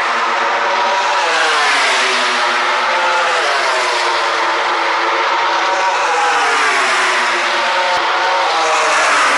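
Several racing motorcycles passing on track, their engine notes overlapping and rising and falling in pitch as they accelerate and shift gears.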